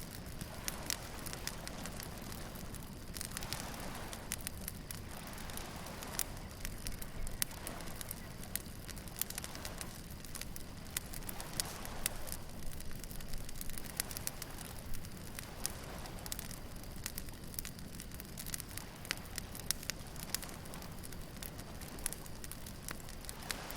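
Wood bonfire crackling, with many sharp pops and snaps throughout, over the soft wash of waves that swells every two to three seconds.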